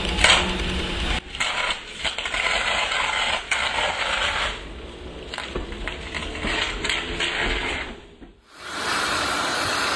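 Clanking and rattling of a tourist train's running gear as it brakes, with many scattered clicks. Near the end the sound drops out briefly and gives way to a steady hiss.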